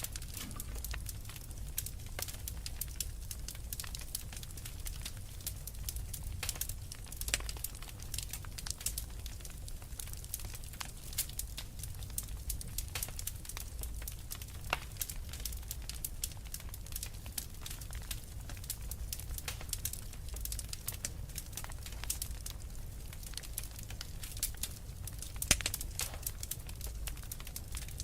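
Wood fire in a fireplace, burning logs crackling and popping at irregular intervals over a low steady rumble of the flames, with a few sharper pops standing out.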